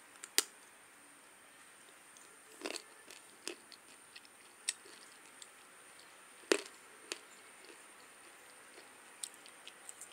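Sharp, dry crunches of a lump of chalky grey clay being bitten and chewed, coming in short single snaps a second or so apart. The loudest are about half a second in and about six and a half seconds in.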